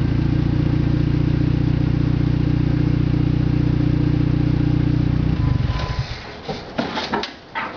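Dodge Neon four-cylinder engine idling steadily through its worn original exhaust, which is falling off after 242,000 miles; the engine shuts off about five and a half seconds in, followed by a few clicks and knocks.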